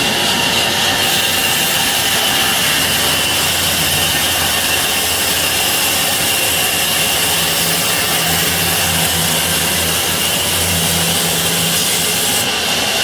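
Sawmill saw running steadily, a dense mechanical noise with a constant high whine. A deeper hum joins about four seconds in and fades near the end.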